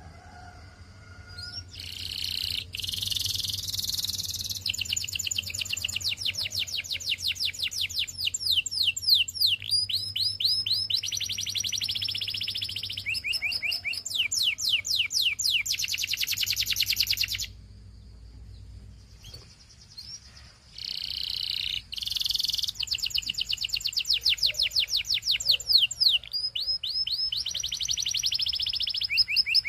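Canary singing: long song phrases made of fast trills of rapidly repeated high notes, some as quick sweeping notes, breaking off for about three seconds past the middle before the song starts again.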